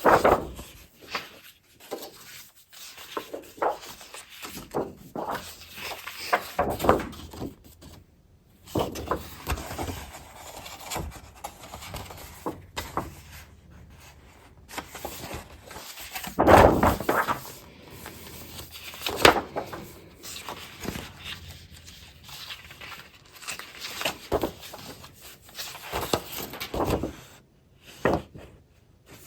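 Scrapbooking paper and craft supplies being handled and sorted: irregular rustling, sliding and crinkling with soft knocks as items are picked up and set down, loudest twice a little past the middle.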